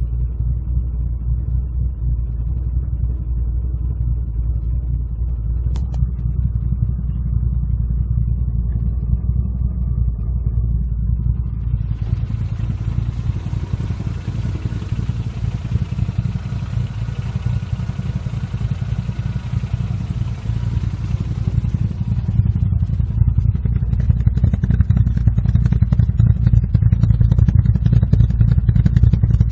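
Bored-out 1386 cc Nissan CR12DE inline-four in a K12 March, running steadily with a low, even engine note that gets a little louder about two-thirds of the way through. A hissing noise comes in over it for about ten seconds in the middle.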